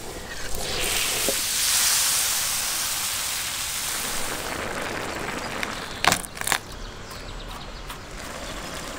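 Diced tomatoes sizzling as they land in a hot wide steel pan of frying eggs: the sizzle swells within the first two seconds and slowly dies down. Two sharp knocks about six seconds in.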